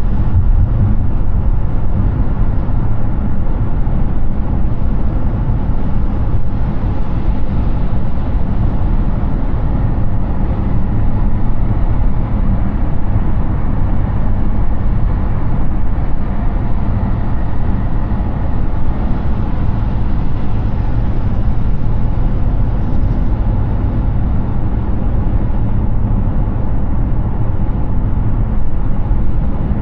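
Hyundai Ioniq 6 electric car cruising at highway speed: a steady, continuous rumble of tyres on the road with a hiss of wind, heaviest in the low end.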